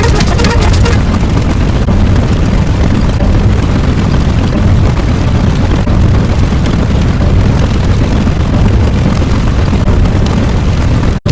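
A loud, continuous sound effect of dense, bass-heavy noise with no clear pitch, cutting out abruptly for a moment near the end.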